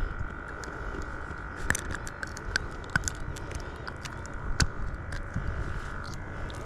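Irregular sharp clicks and light rattles of a caught fish and its hooked tackle being handled, the hook swallowed deep, over a steady high drone in the background.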